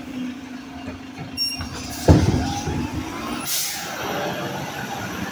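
Garbage truck engine running steadily, with a loud bang about two seconds in and a short air-brake hiss about a second and a half later.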